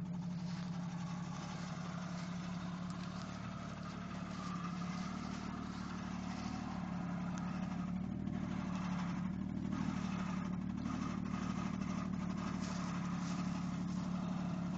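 A 4x4's engine running steadily at low revs, with a slight swell in level about halfway through.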